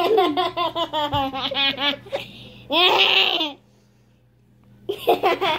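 A child laughing in rapid, breathy bursts, breaking into a high-pitched squeal, then laughing again after a short pause near the end.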